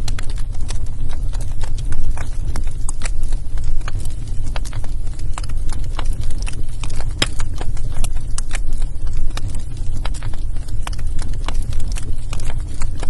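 Wood fire burning in a fireplace, crackling and popping irregularly over a low steady rumble.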